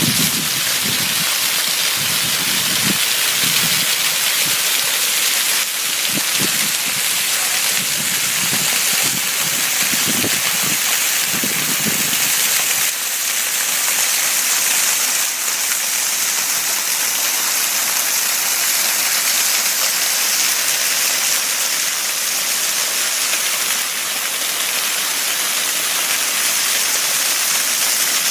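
Small waterfall cascading down a stone wall and splashing onto rocks: a steady rush of falling water.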